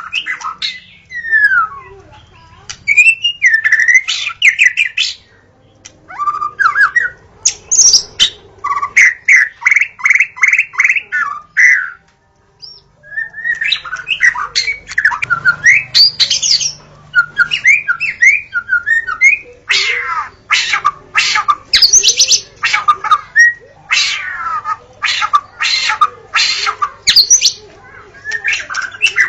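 White-rumped shama (murai batu) singing a loud, varied song of slurred whistles and fast runs of repeated notes, with a short pause about twelve seconds in.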